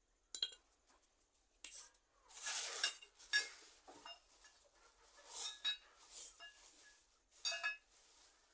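Metal parts of a household gas stove clinking and scraping as they are handled during repair, in several short bouts with brief metallic ringing.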